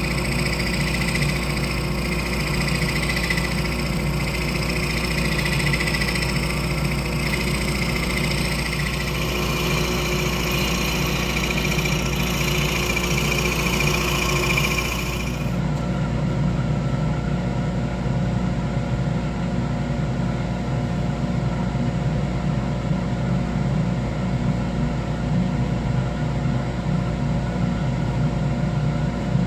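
Wood lathe running steadily with a low motor hum. For about the first half, a higher hiss of the spinning wood being worked rides over it, then cuts off suddenly, leaving the lathe running alone.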